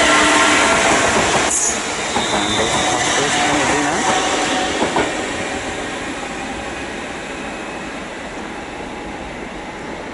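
Electric train running along the track, loud at first with steady high tones and a few short squeals, then fading over about five seconds to a low rumble as it moves away.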